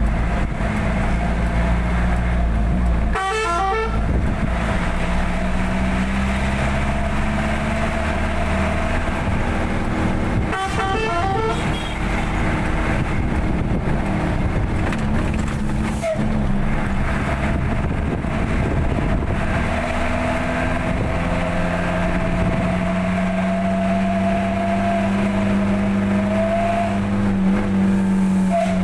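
Truck engine running steadily on the road, with a horn sounding a quick run of several tones twice: once about 3 seconds in and again about 11 seconds in.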